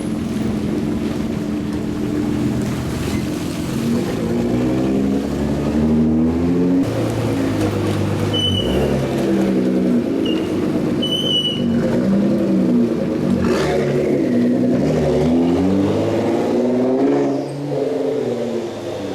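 Supercar engines revving and accelerating away one after another, their pitch climbing and dropping through gear changes. There are a few short high chirps around the middle.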